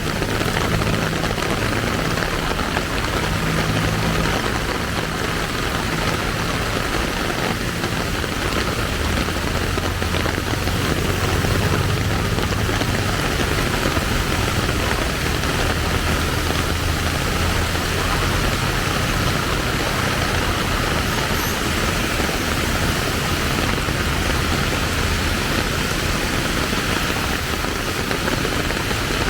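Steady hiss of falling rain over the low hum of motor vehicle engines in traffic.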